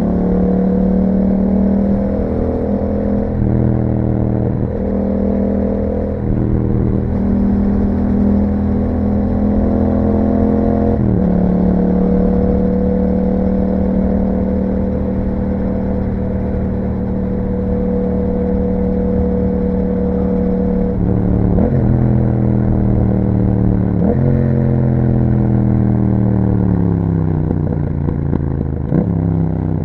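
Yamaha MT-07's 689 cc parallel-twin engine through an Akrapovic exhaust while riding. The revs rise and drop with several gear changes in the first ten seconds, hold steady for about ten seconds of cruising, then fall through downshifts near the end as the bike slows.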